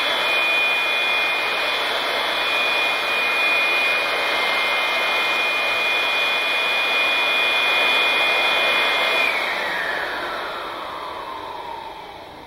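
Two blowers running at full power with a steady rush of air and a high whine, then switched off about nine seconds in, their pitch falling as they spin down.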